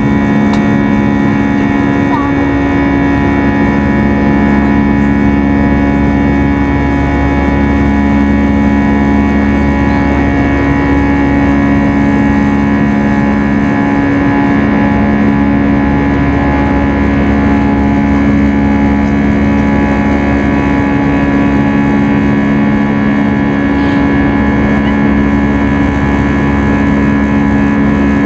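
Airbus A320 cabin noise in the climb: a steady engine drone and airflow rush, with a low hum that fades in and out every few seconds.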